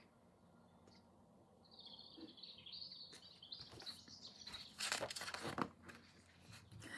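Faint bird chirping: a high, wavering twitter lasting a couple of seconds, followed about five seconds in by a short rustle.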